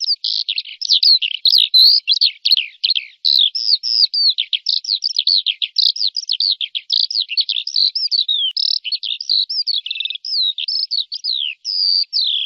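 A songbird singing a fast, unbroken run of varied chirping notes, several a second, many of them quick downward slides.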